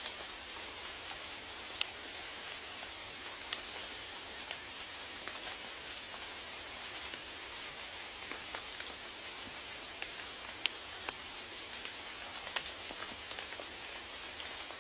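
Steady rain falling, an even hiss with scattered individual drops ticking sharply, a few louder ones about 2, 11 and 12.5 seconds in.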